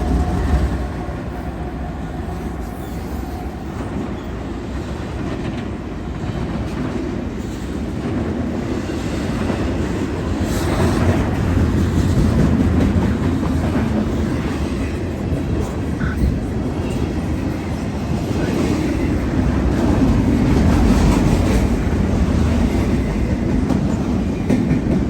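Norfolk Southern intermodal train's cars rolling past, wheels clattering over the rails in a steady rumble that swells and eases.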